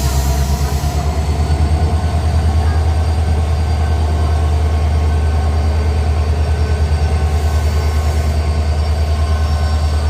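A train at a railway station: a loud, steady low rumble that throbs several times a second, with steady whining tones above it.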